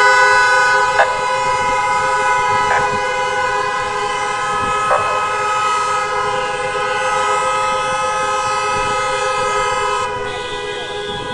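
Many car horns sounding together in a long, continuous blare of several steady overlapping tones, with a few brief knocks on top, the first about a second in.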